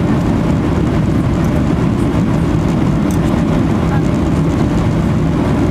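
Steady low rumble of an aircraft's engines and airflow, even in level throughout.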